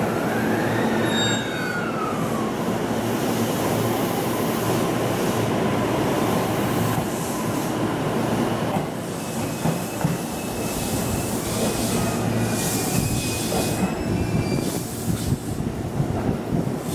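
E217-series electric commuter train pulling into the platform and braking to a stop, its wheels rumbling on the rails. A whine falls in pitch in the first couple of seconds, and high brake and wheel squeal sounds in the second half as the train slows to a halt.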